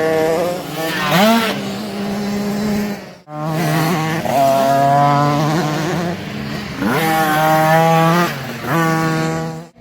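Engines of 50cc two-stroke mini motocross bikes running at high revs, the pitch swooping up sharply three times as the throttle opens. The sound breaks off abruptly about three seconds in and again at the end.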